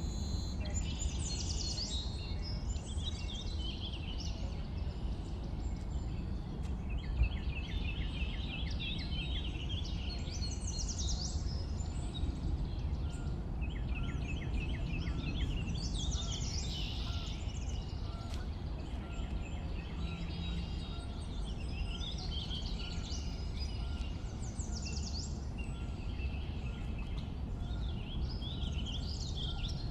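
Several songbirds chirping and singing, with high trills and runs of quick repeated notes, over a steady low rumble of background noise.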